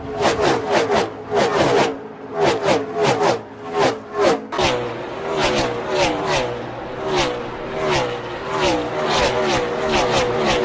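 Gen 6 NASCAR stock cars' V8 engines at full throttle, passing close to a trackside microphone car after car, the engine note dropping in pitch as each one goes by.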